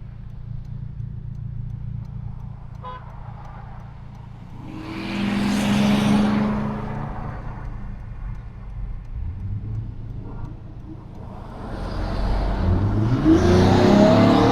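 A 2022 Honda Civic Si's 1.5-litre turbocharged four-cylinder heard from inside the car, running with a steady low drone, swelling about five seconds in, then pulling again with the engine note climbing and getting loudest near the end.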